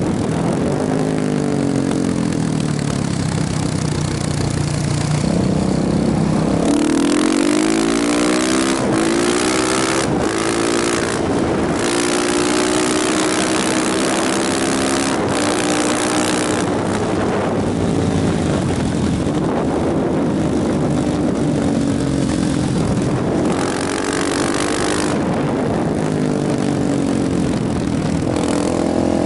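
KTM motorcycle engine pulling through the gears, its pitch climbing and dropping back at each shift, with gusts of wind noise on the microphone now and then.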